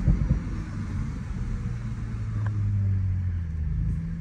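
2023 Audi S5's 3.0-litre turbocharged V6, heard from inside the cabin, coming down off a rev: a few quick exhaust burbles right at the start, then a steady low idle.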